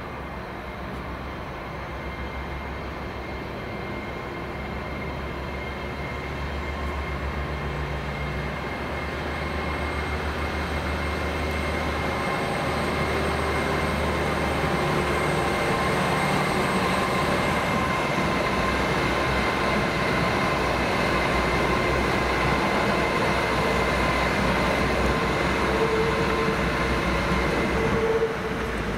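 A Hitachi Class 805 bi-mode passenger train approaching along the track. Its running noise carries a steady high whine and grows gradually louder as it nears.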